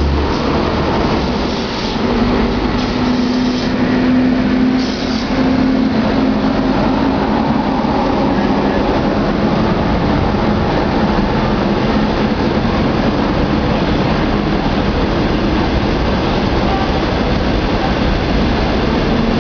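Long-distance passenger train rolling past on the main line: the steady running noise of the locomotive and coaches on the rails.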